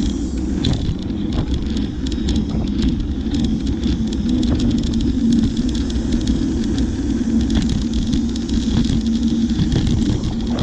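Bicycle in motion: a steady low rumble of tyres on the road with a faint hum, and frequent small clicks and rattles from the bike as it rolls.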